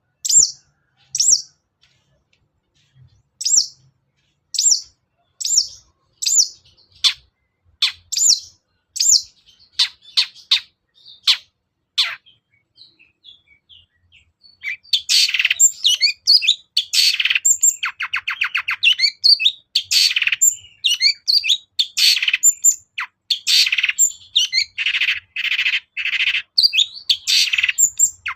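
Long-tailed shrike singing: a series of sharp, high single notes about one a second, then, after a short pause, a fast, harsh chattering run with a quick rattling trill.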